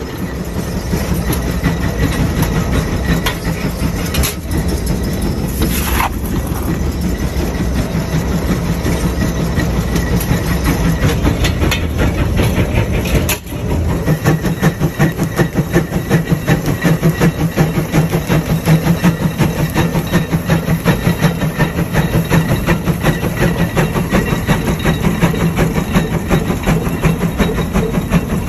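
Large steam traction engine running, its exhaust chuffing in a quick, even rhythm with some hiss. After a brief drop about halfway through, the chuffs come back louder.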